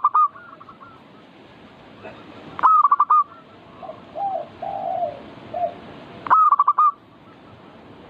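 Zebra doves (perkutut) cooing: a loud burst of quick staccato notes about every three and a half seconds, with softer, lower-pitched coos in between.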